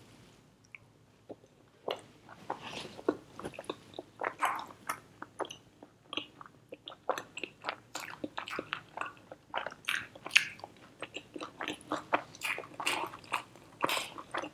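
A person chewing a mouthful of butter chicken with flatbread: a quick, irregular run of wet smacking and clicking mouth sounds that starts about two seconds in.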